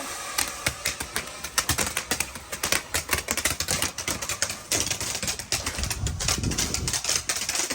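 Fireworks crackling: a fast, irregular run of small sharp pops that goes on throughout, some louder than others.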